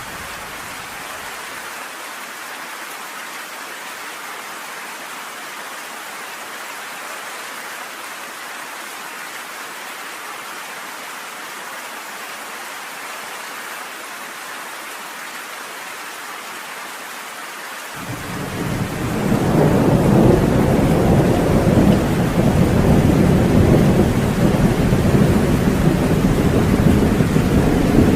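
Steady rain falling in an even hiss. About two-thirds of the way in, a deep rumble of thunder swells up and keeps rolling, much louder than the rain.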